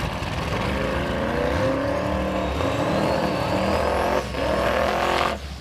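Twin-turbo big-block Chevrolet V8 on E85 revving hard, most likely during a burnout, its pitch climbing with a high whistle rising over it. It dips briefly about four seconds in and falls off near the end.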